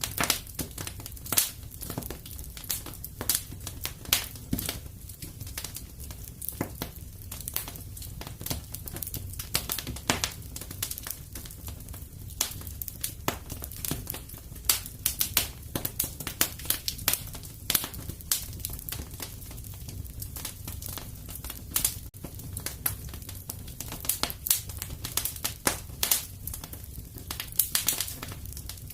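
Wood fire crackling in a fireplace: irregular sharp pops and snaps, several a second, over a steady low rumble of flames.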